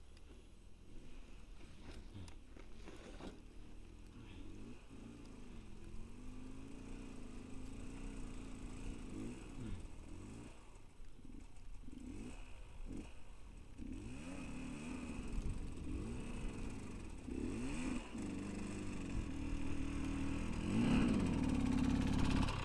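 A motor vehicle's engine revving up and down over and over in snow, getting louder toward the end.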